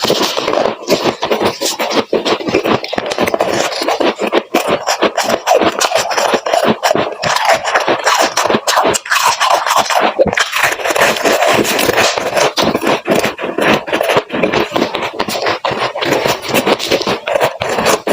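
Freezer frost being crunched and scraped close to the microphone: a dense, unbroken run of crackling crunches.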